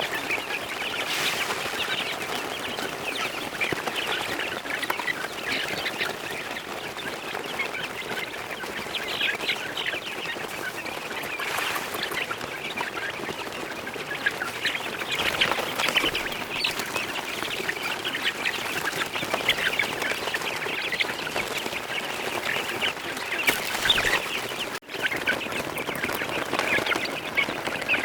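A flock of chickens and ducks calling together: many overlapping clucks and quacks, continuous, with one brief break about 25 s in.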